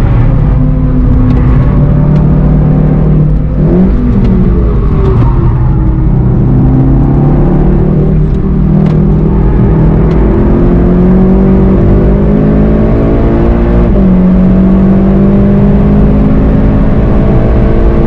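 VW Golf 7.5 GTI TCR's turbocharged 2.0-litre four-cylinder engine heard from inside the cabin at racing pace. It holds a steady note while braking, jumps briefly in revs about three and a half seconds in on a downshift, then pulls hard with rising revs. The revs drop sharply twice in the second half as it shifts up.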